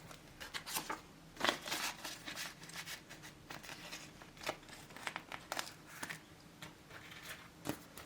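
Plastic zip cash-envelope wallets being handled and sorted: irregular crinkling and light clicks, the loudest about a second and a half in and again near the end.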